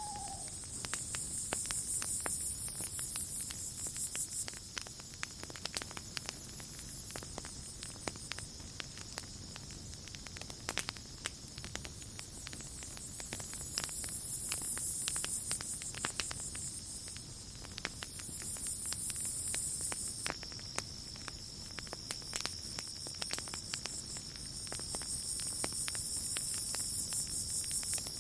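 Campfire crackling with frequent sharp pops, over a night chorus of insects: a steady high trill throughout, getting louder about two-thirds of the way in, and an even higher buzzing that swells and fades in spells of a few seconds.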